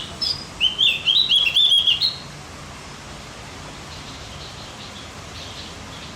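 Javan grey-throated white-eye (opior jawa) singing a quick, chattering phrase of short, repeated up-and-down notes lasting about a second and a half, followed by faint chirps.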